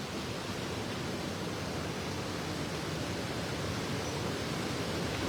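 Steady rushing of swift river water by a waterfall, an even roar of noise.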